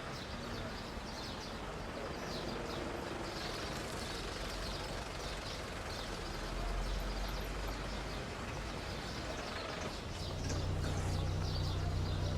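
Outdoor ambience with birds chirping; about ten seconds in, a low steady hum comes in underneath.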